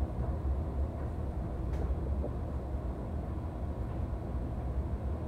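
Steady low rumble of a moving NJ Transit Multilevel coach heard from inside the passenger cabin, wheels running on the rails at speed, with a light click a little under two seconds in.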